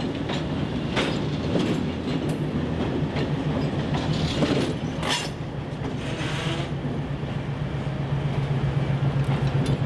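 Diesel excursion train led by two Alco C420 locomotives running past, their engines humming steadily and growing louder in the second half, with wheels clicking over the rail joints.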